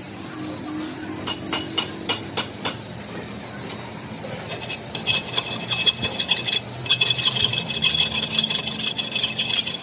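Workshop tool work: a few sharp taps between one and three seconds in, then a continuous rasping with a steady high whine from about four and a half seconds, breaking off briefly near seven seconds.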